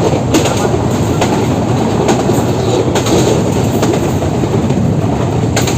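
Train running along the track: a steady rumble, with clicks of the wheels passing over rail joints about once a second.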